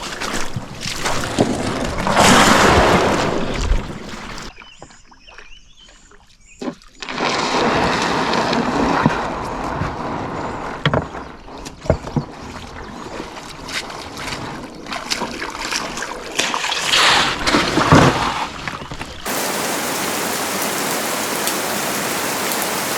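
A rushing noise that swells and falls, with scattered knocks and a quieter spell, then a sudden change near the end to steady, heavy rain pouring down from a storm cell.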